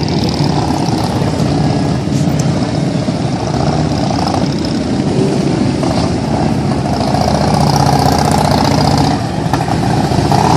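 Harley-Davidson police motorcycles' V-twin engines running at low speed through slow parking-lot manoeuvres, the engine note swelling a little past the middle.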